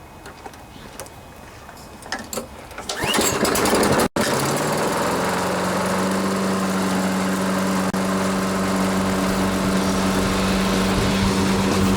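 Toro GTS Recycler lawn mower's single-cylinder Tecumseh engine being pull-started with its newly rewound starter rope. It catches about three seconds in and then runs steadily, showing the new rope starts it.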